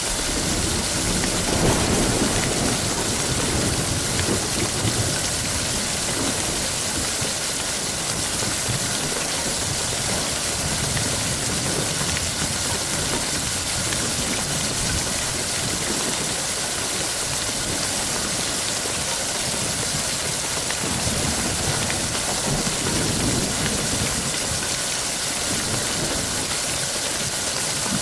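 Heavy rain falling steadily, with low rolls of thunder swelling up about two seconds in and again near the end.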